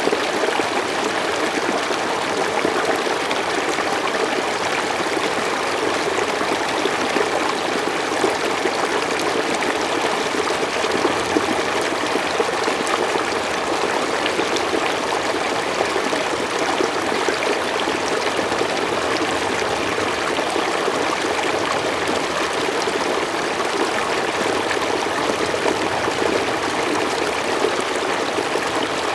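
Mountain stream flowing steadily over rocks, a continuous rushing and burbling of water.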